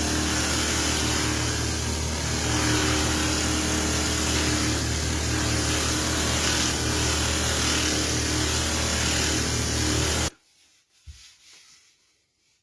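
Wood lathe running while a flute blank is turned down, a steady motor hum under a loud hiss of cutting. It cuts off abruptly about ten seconds in, leaving only a few faint knocks.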